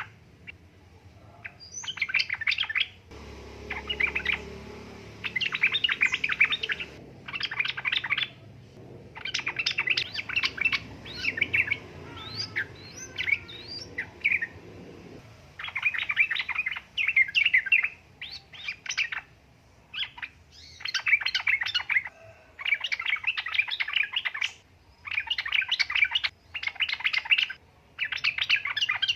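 Yellow-vented bulbul (trucuk) singing in repeated bursts of quick chattering notes, each about a second long with short gaps between them. It is used as a lure call, billed as a female calling a male, to set male trucuk answering. A low rumble runs under the song through the first half.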